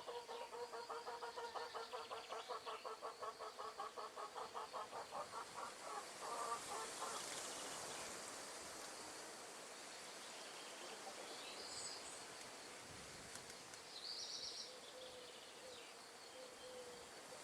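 Bird calls in natural outdoor ambience. A rapid rattling call of about five or six notes a second lasts for the first five seconds or so, then a soft rush of wind, and later a few short high chirps near the end.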